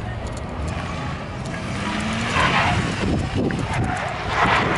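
Truck engine revving as it accelerates away, its note rising about two seconds in, over a steady low engine rumble.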